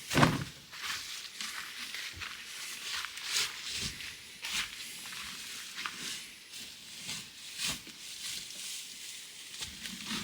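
Dry hay and soiled bedding rustling and crackling as it is scooped out and spread, in uneven handfuls, with a few soft knocks.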